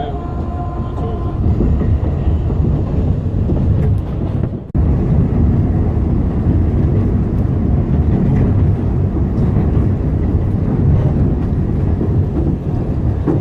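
Alishan Forest Railway narrow-gauge train running along the track: a steady low rumble. It breaks off for a split second about five seconds in.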